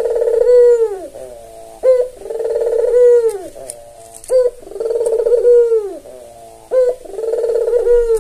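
Puter (Barbary dove) cooing over and over, about every two seconds, four calls in all. Each call is a short rising note followed by a longer rolling coo that drops in pitch at the end.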